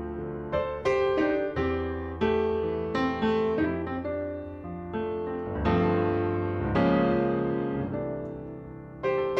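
Background piano music: slow chords and notes struck and left to ring and fade, with new chords about every second or so.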